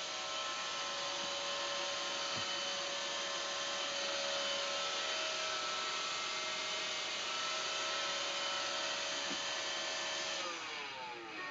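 Roomba robot vacuum running with a steady hum, then winding down near the end, its pitch falling as the motor stops.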